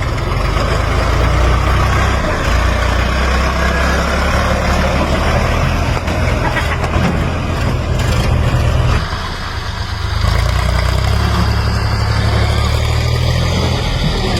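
Heavy vehicle's diesel engine running steadily, easing off for a moment about nine seconds in and then picking up again.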